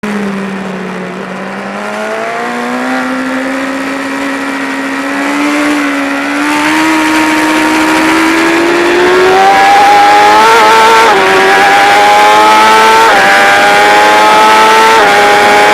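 BMW S1000RR inline-four engine heard onboard, the revs climbing steadily and getting louder, then three quick upshifts in the second half, each a brief dip in pitch before the revs rise again.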